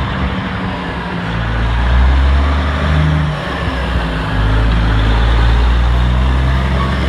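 Heavy diesel engine of a school bus running, a steady low rumble that swells about two seconds in, dips briefly, and rises again.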